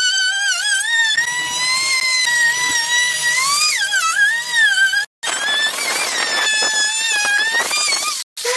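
Electric power tool's motor whining, its pitch dipping and rising as the load changes. From about halfway there is rough cutting noise under the whine. The sound cuts off abruptly twice.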